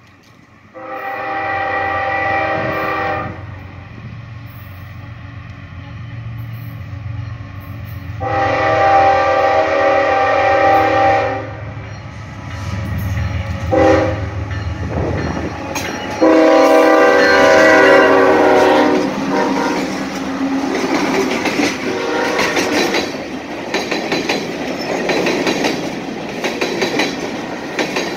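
A CSX diesel freight locomotive blows its air horn in the long-long-short-long grade-crossing pattern as it approaches: two long blasts, a short one, then a final long blast, over a building engine rumble. After the locomotive passes, the wheels of loaded hopper cars clack and rattle steadily over the rails.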